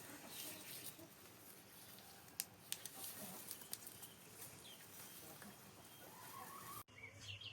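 Faint clucking of chickens over a low background hiss, with a few sharp clicks in the middle. The sound cuts off suddenly near the end.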